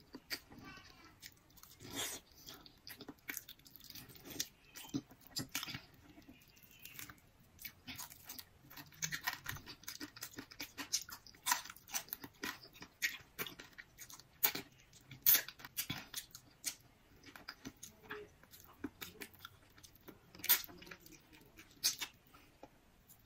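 A person chewing a mouthful of crisp iceberg lettuce, with irregular crunches and mouth clicks, a few sharper crunches standing out.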